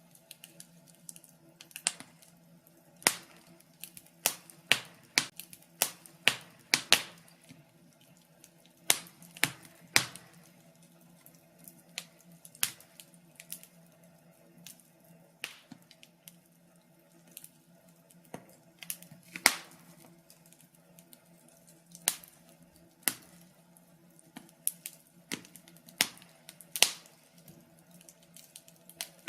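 Wood fire crackling in a fireplace: irregular sharp pops and snaps, a few every second, some much louder than the rest, over a faint steady low hum.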